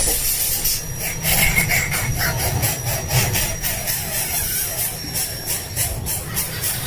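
Young birds begging for food with rapid, raspy, hissing calls, over a low rumble.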